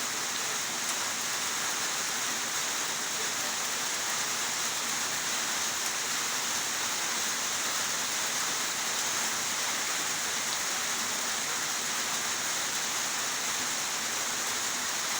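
Steady, even rainfall, heavy and continuous, with no breaks.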